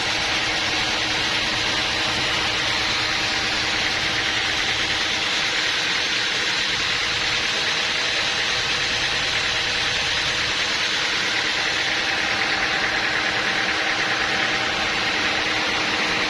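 Sawmill machinery running steadily: a constant hum with a strong hiss over it, unchanging throughout.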